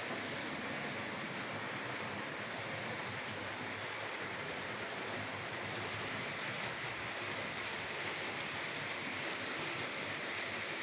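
H0 model trains running on the layout: a steady rushing of metal wheels rolling on the rails and small electric motors.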